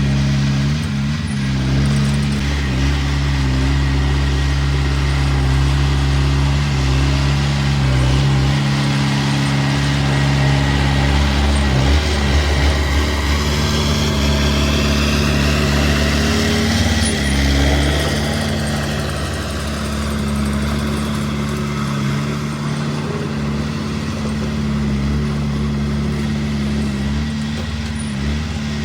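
Diesel engine of a small bulldozer running steadily. A fainter higher whine rises and falls in the middle of the stretch.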